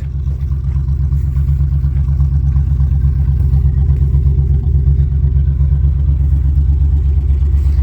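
Engine of a 1967 International 1200 service truck idling steadily, a continuous low rumble after a cold start.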